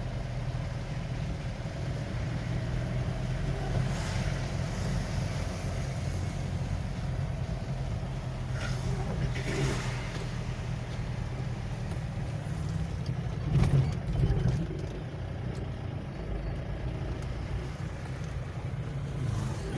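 Motor vehicle running steadily: a low engine rumble with road noise, and a few brief louder noises about four, nine and fourteen seconds in.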